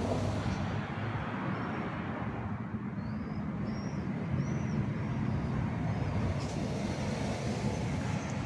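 A steady low rumble, with a run of short high chirps from about three to five seconds in.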